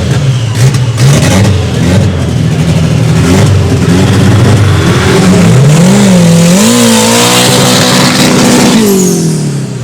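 Drag-racing car engine revving unevenly, then accelerating hard: its pitch climbs with brief dips, holds high, and drops off near the end.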